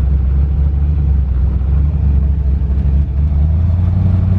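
Twin-turbo LS V8 running without mufflers while the car cruises, a deep, steady drone heard from inside the cabin; the revs rise slightly near the end.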